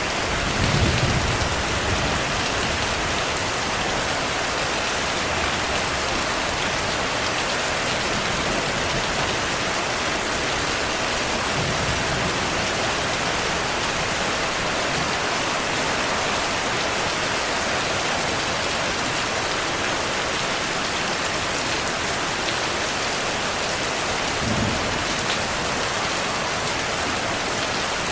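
Steady heavy rainfall hissing evenly, with low thunder rumbles twice: one in the first couple of seconds and one near the end.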